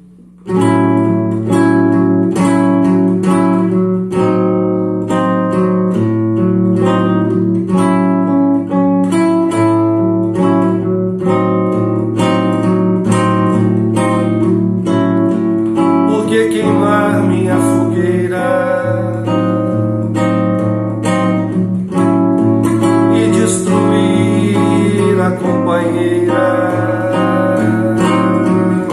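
Acoustic guitar strummed in a steady rhythm, starting about half a second in.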